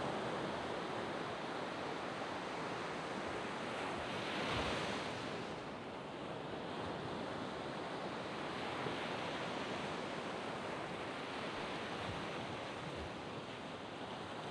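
Waves breaking and washing up a sandy beach, a continuous surf hiss, with one wave washing in louder about four seconds in.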